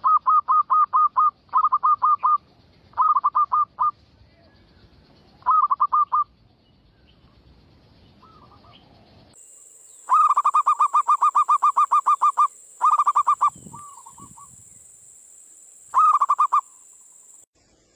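Zebra dove (perkutut) calling: bursts of rapid, evenly spaced cooing notes, repeated with short pauses between them, as played for a perkutut lure. About nine seconds in the recording changes and a steady high hiss sits under the calls.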